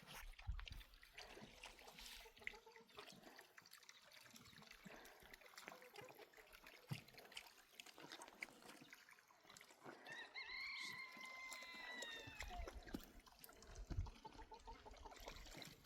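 Rainwater trickling and dripping, with many small drip ticks. About ten seconds in, a high, drawn-out call sounds for roughly two seconds, falling slightly at the end.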